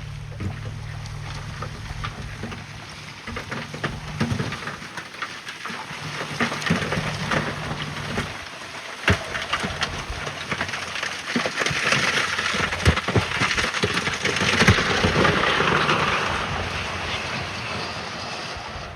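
Heavy machinery's engine running low, then a long rushing noise with many knocks and clatters that swells to its loudest about two-thirds of the way through and fades near the end.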